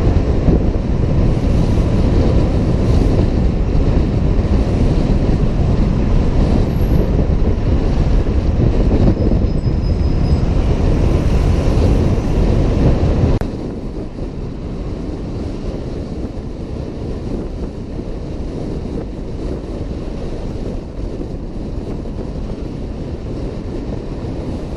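Wind buffeting the microphone of a helmet-mounted camera on a moving Honda PCX 125 scooter, a loud, steady rushing noise. A little over halfway through it drops suddenly to a lower, steady level.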